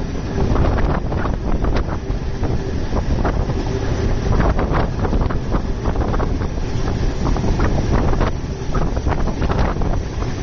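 A moving passenger train heard from on board: a steady low rumble of wheels on rails, with wind buffeting the microphone and frequent irregular knocks and rattles.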